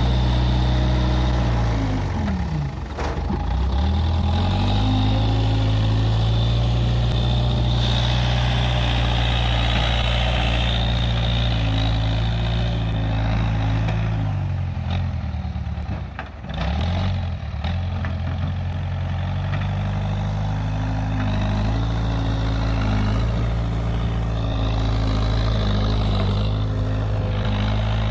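Case 580G backhoe loader's diesel engine running steadily at working speed; twice, about two seconds in and again past the halfway point, its speed drops sharply and then climbs back.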